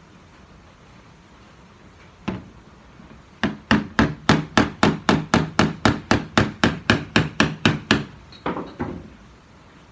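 Hammer striking the sheet metal of a 1965 Comet's quarter panel: one knock, then a fast, even run of about twenty blows, four to five a second, then a few lighter taps.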